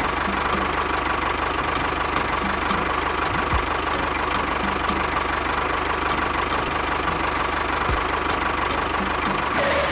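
Small engine running steadily, with a fast, even low beat and a steady whine.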